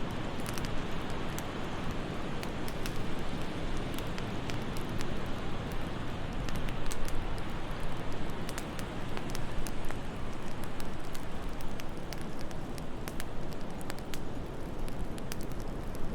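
Wood fire crackling, with scattered sharp pops at irregular moments, over a steady low rushing noise of wind.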